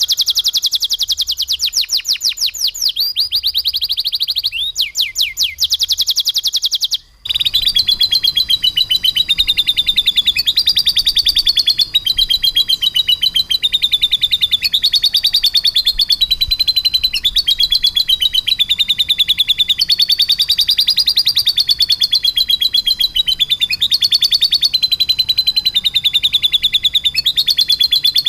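Domestic canary singing long, very fast rolling trills in imitation of a lovebird's chatter. The song breaks off abruptly about seven seconds in, then resumes as one long unbroken rapid chatter that wavers up and down in pitch.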